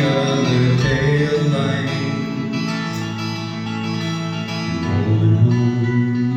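Acoustic guitar playing a slow country-folk song, strummed and picked.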